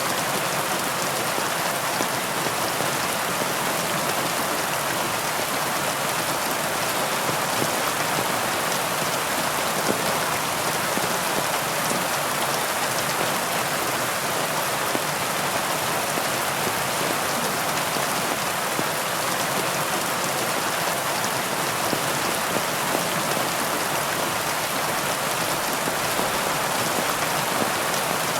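Steady heavy rain falling on leaves, a dense even patter with no breaks.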